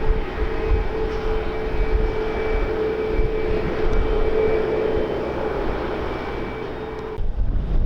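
Aircraft engine noise with a steady droning tone, mixed with low wind rumble on the microphone; the engine sound cuts off about seven seconds in, leaving the wind.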